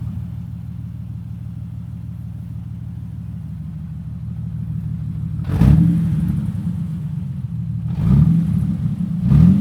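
2005 Jeep Wrangler LJ's 4.0-litre inline-six running with its muffler cut off, exhaust open after the pipe. It idles steadily, then is revved in three short blips in the last four seconds.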